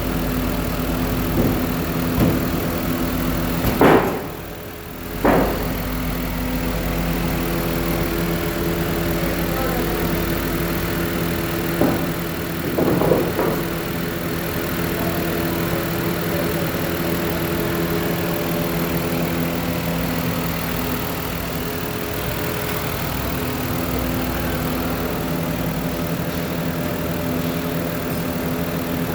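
2006 Ford Five Hundred's 3.0 L V6, at 134,000 miles, idling steadily. A few short louder bursts break in about four and five seconds in and again around thirteen seconds.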